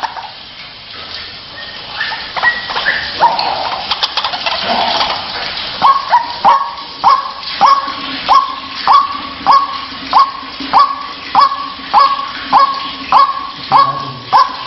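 White-breasted waterhen (ruak-ruak) calling: a few uneven croaking notes, then from about six seconds in a steady run of short, rising 'kruwak' calls repeated a little faster than one and a half per second.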